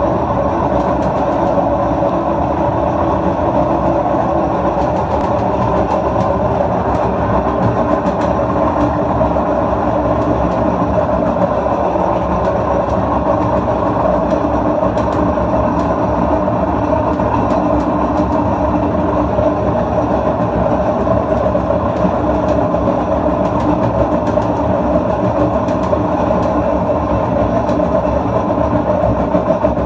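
LG washing machine running, a loud, steady mechanical drone with scattered rattling clicks throughout.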